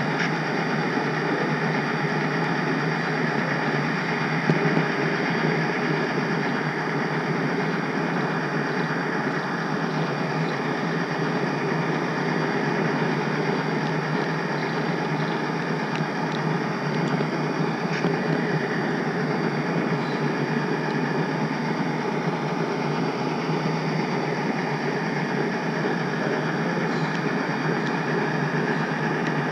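HO-scale model train rolling along its track, heard from a camera riding on the caboose: a steady rolling rumble of the small wheels, with a few faint ticks at rail joints.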